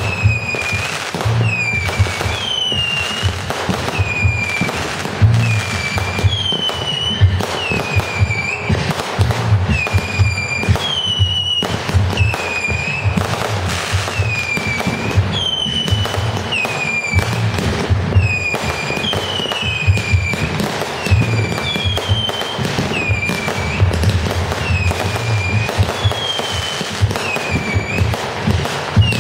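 Consumer fireworks going off in a steady run of bangs and crackles, with a short high dipping whistle about once a second. Music with a bass beat plays underneath.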